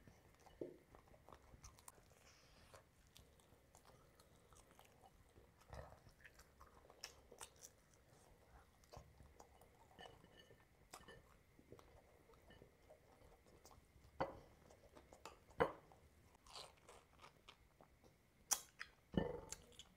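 Close-miked eating sounds: a person chewing and crunching food, with soft mouth clicks and wet crackles, eating rice and curry with his hand. The sounds are mostly faint, with a few louder crunches in the last six seconds.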